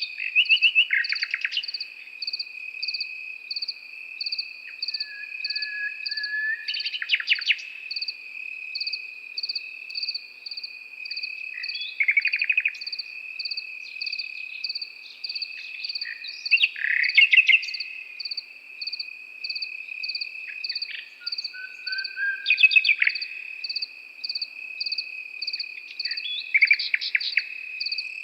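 Nightingale singing short phrases of rapid repeated notes, one every five seconds or so, over crickets chirping at about two chirps a second and a continuous high insect trill.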